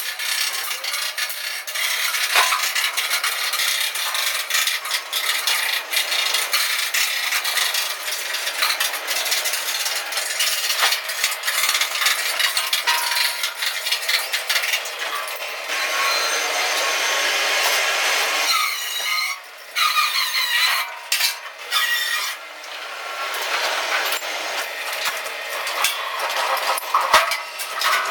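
Metalworking noise in a steel truck-bed fabrication shop: a continuous crackling, scraping hiss full of sharp clicks. A steadier hiss holds for a few seconds past the middle, with a couple of brief drops soon after.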